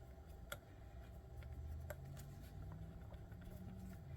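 A few faint, light clicks of small screws and plastic kit parts being handled on a workbench, over a low steady hum.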